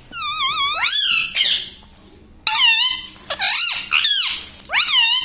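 Ringneck parrot making high-pitched squeaky calls in four bouts, the first a warbling trill that sweeps up, the others quick rising-and-falling squeals.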